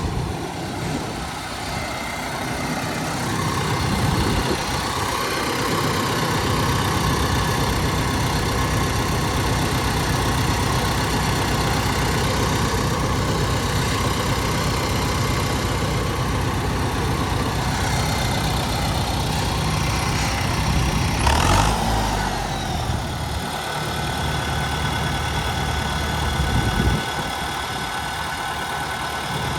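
Tractor diesel engine running steadily, with a short louder surge about two-thirds of the way through.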